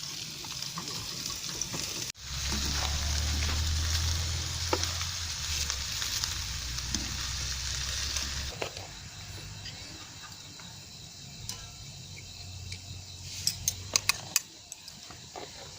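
Food sizzling as it fries in a pan. A sudden cut comes about two seconds in, then louder sizzling over a low rumble until it drops off past the middle, with a few sharp clicks near the end.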